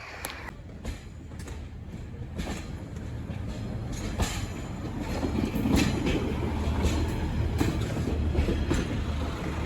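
A train running on rails, with a steady low rumble that grows louder and repeated sharp clicks from the wheels and track.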